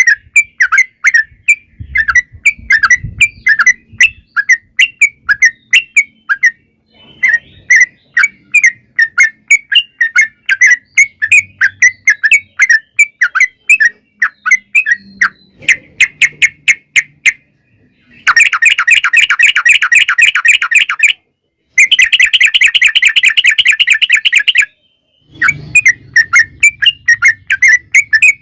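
Yellow-vented bulbul (trucukan) singing: quick series of short chirping notes. About two-thirds through come two long, rapid unbroken trills, each about three seconds long.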